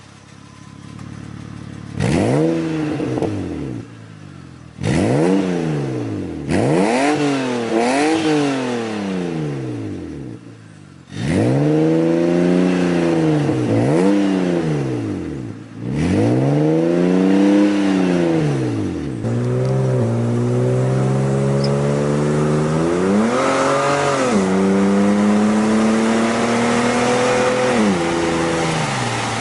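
BMW E36 straight-six engine through a Flashark cat-back exhaust, revved repeatedly: a quiet start, then a series of revs that rise and fall one after another for about a dozen seconds. It then settles into a longer, steadier run with one more swell about two-thirds of the way through and a drop in pitch near the end.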